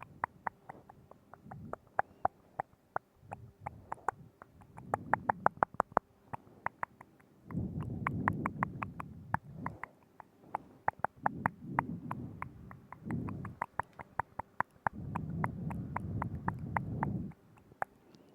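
Wet mouth sounds close to the microphone: rapid tongue clicks and lip smacks, several a second, broken twice by longer low, muffled stretches.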